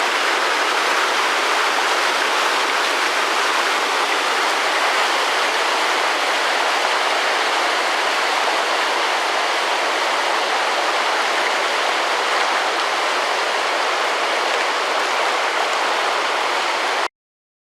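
Whitewater of the Citarik River rushing steadily and loudly, cutting off suddenly near the end.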